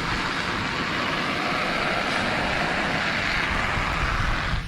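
Lawn sprinkler head spraying water, a steady loud hiss that cuts off suddenly at the end.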